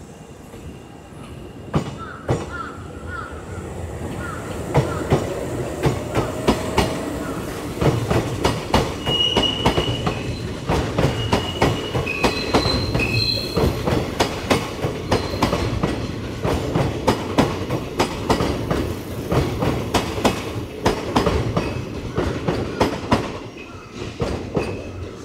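A Kintetsu Minami Osaka Line electric train running through the station, its wheels clattering over the rail joints in a fast, steady rhythm. The sound builds, holds and fades away near the end, with a few short, high wheel squeals about halfway through.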